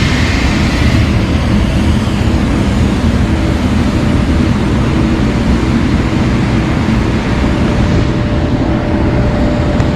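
Steady, loud aircraft noise beside a parked Boeing 737: a constant low rumble with faint steady whining tones above it.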